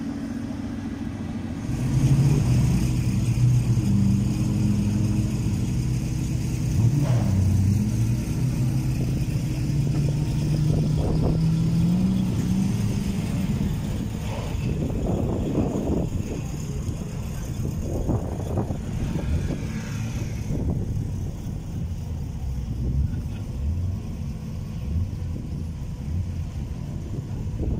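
Drift cars' engines running: a loud, steady engine drone that climbs slightly in pitch over the first half, then an uneven stretch of idling with short throttle blips.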